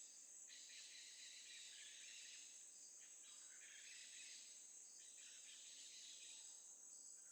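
Faint nature ambience of insects, crickets chirring steadily in a high, even trill.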